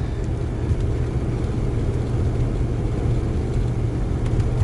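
Steady low rumble of a car's engine and tyres on a snowy road, heard from inside the moving car.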